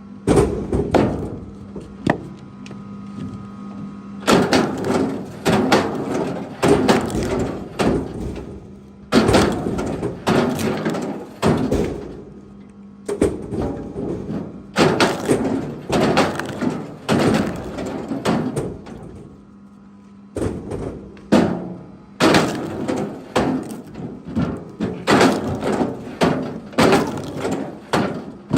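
Heavy knocks and cracks of wood struck again and again, in runs of several blows with short pauses between them.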